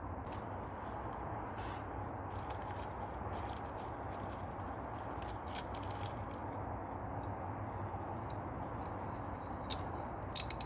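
Faint, scattered clicks and light taps of small parts being handled over a steady background hiss, with a few sharper clicks near the end: the oil filter housing cap and its rubber seals being worked by hand during an oil filter change.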